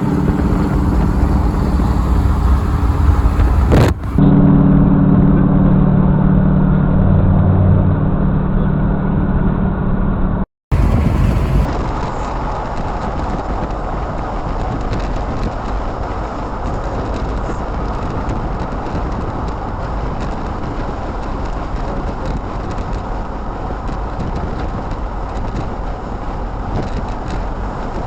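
Vehicle engine and road noise heard from inside a moving vehicle: a steady low drone, then after a brief dropout an even road rumble.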